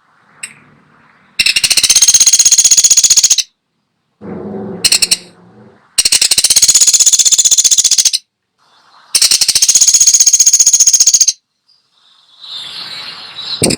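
A woodpecker, the pelatuk sampit of Indonesian bird-keepers, giving fast rattling call series: three loud rattles of about two seconds each, spaced a second or so apart, with one short burst between the first two. Softer, lower sounds fill the gaps.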